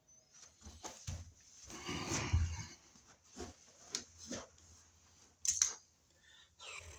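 Scattered clicks and knocks with some rustling, the handling noise of hand tools and electrical parts being worked.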